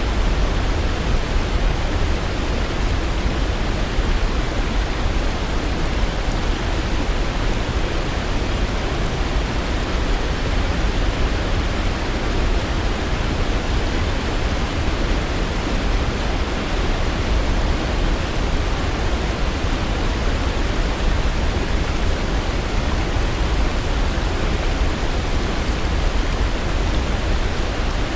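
Waterfall: a steady, unbroken rush of falling water, deepest in the low end.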